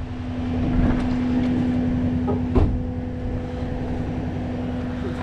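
Rollback tow truck's engine running at raised idle with the PTO engaged: a steady hum over a low rumble. A single sharp knock comes about two and a half seconds in.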